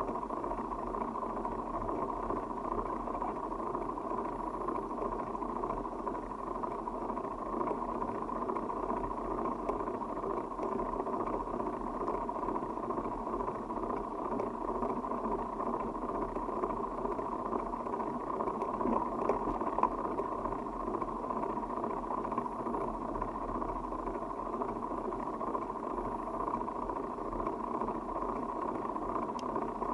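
Steady rushing wind and rolling noise of a bicycle ride picked up by a camera on the move, an even roar with no distinct events.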